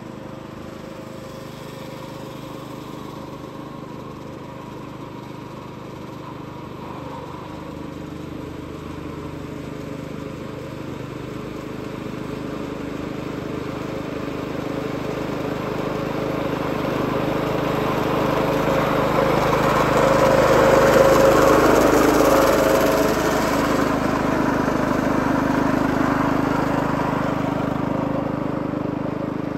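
Small petrol engine of a reel lawn mower running at a steady pitch. It grows louder as the mower approaches, is loudest about two-thirds of the way through, then eases off slightly.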